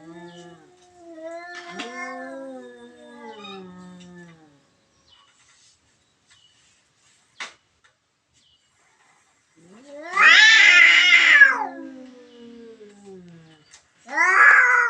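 Cat caterwauling: low, drawn-out wavering yowls at first, then after a quiet spell a loud long yowl that rises and falls about ten seconds in, and another loud yowl near the end. A single sharp click comes about halfway through.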